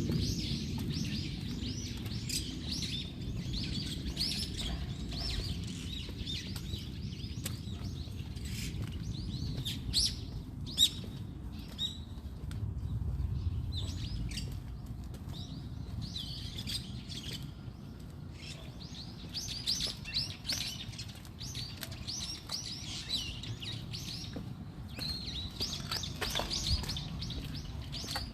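Many small songbirds chirping and twittering in quick, high calls, dense at first, thinning out in the middle and picking up again, over a low steady background rumble.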